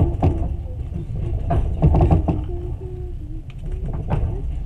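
Passenger train running, heard from inside the carriage: a steady low rumble with a few sharp, irregular knocks and rattles.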